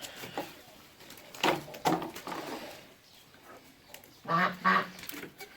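Domestic waterfowl honking: two short calls about a second and a half in and two more a little after four seconds.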